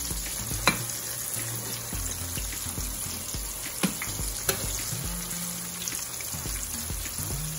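Cornmeal-breaded green tomato slices sizzling steadily as they fry in shallow oil in a pan. Three short clicks as a slotted spatula knocks against the pan.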